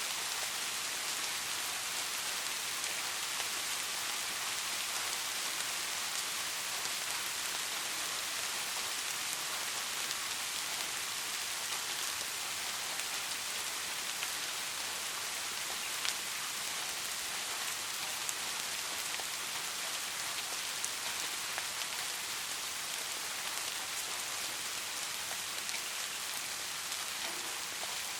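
Steady, soft rainfall: an even hiss of rain with scattered individual drop ticks, a few slightly louder ones now and then.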